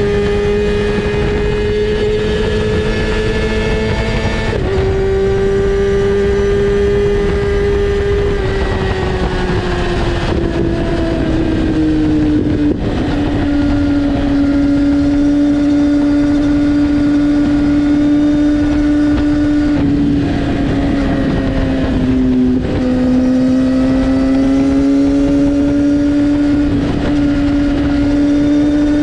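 2019 Kawasaki ZX-6R's 636 cc inline-four running through an Akrapovic exhaust with the dB killer removed and the butterfly valve disabled. It holds a high, steady engine note, eases down to a lower steady note about ten seconds in, and dips briefly once near the end.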